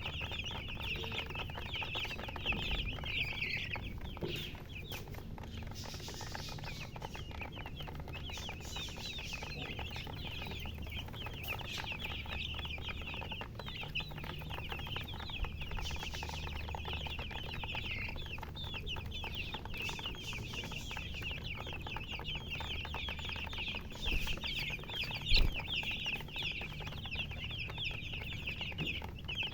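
A brood of baby chicks peeping continuously, many overlapping short high chirps at once, over a low steady hum. A single sharp knock about 25 seconds in.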